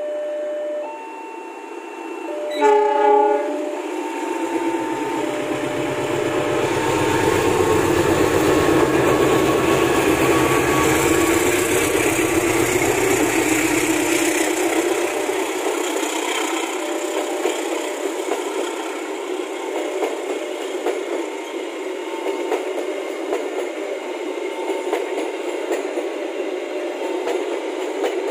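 A level-crossing alarm chimes in two alternating tones, then a CC206 diesel-electric locomotive sounds one short horn blast about three seconds in. The locomotive's engine is heard as it passes, followed by the steady rolling noise of the passenger coaches on the rails, with the crossing alarm still chiming faintly.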